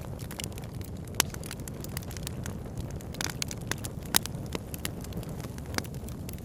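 Campfire crackling, wood snapping in many small clicks with several sharper pops, over a steady low rushing of river water.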